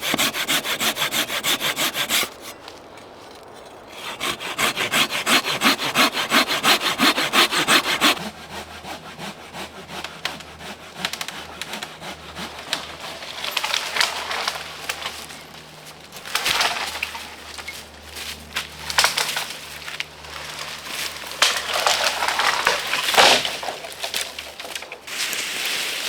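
Hand saw cutting through dry, dead wood in quick back-and-forth strokes, two bouts with a short pause between, followed by irregular rubbing and cracking sounds of the wood.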